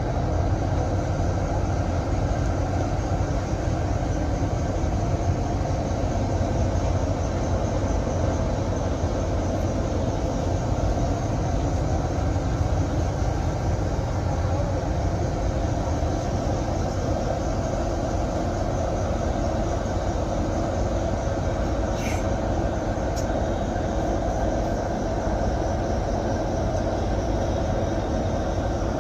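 Steady engine and road noise of a bus travelling at highway speed, with one brief click about 22 seconds in.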